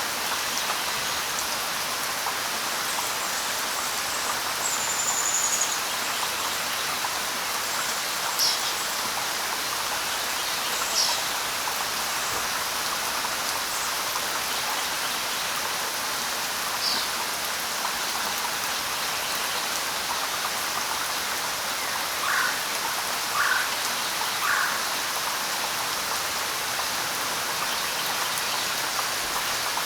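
Steady light rain hissing on leaves, with a few short bird chirps scattered through it and three lower calls about a second apart past the middle.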